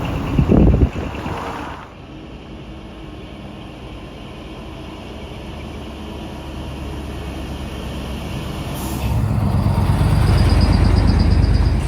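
Decorated tractor-trailer trucks driving past one after another, engines running. A short loud burst comes about half a second in, and near the end a truck passes close and louder.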